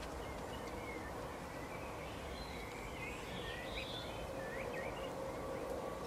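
Small birds chirping and twittering in short, quick notes, mostly through the middle, over steady outdoor background noise with a faint hum.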